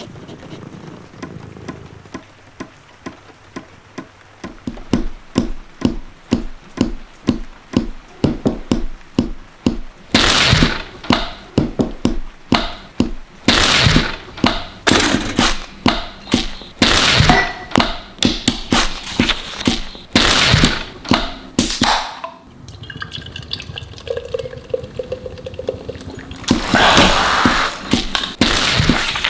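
A rhythmic montage of everyday household sounds, including sharp ticks and thunks and splashes or pours of water, edited to a steady beat that builds up as it goes.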